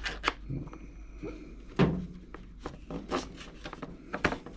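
Light clicks and knocks of plastic model-airplane parts being handled and fitted together, a handful of separate sharp taps with the strongest about two seconds in.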